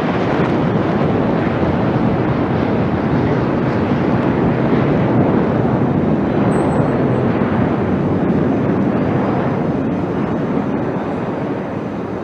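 Jet fighter engines in a display flypast, a steady loud rushing noise that builds through the middle and eases slightly near the end.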